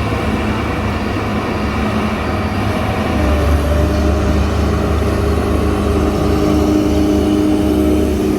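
Heavy truck's diesel engine running steadily under load, getting louder and stronger about three seconds in.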